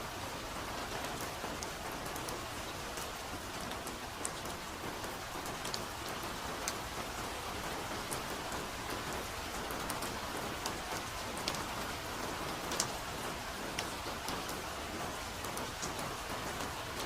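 Steady soft rain falling, an even hiss with scattered individual drops pattering close by.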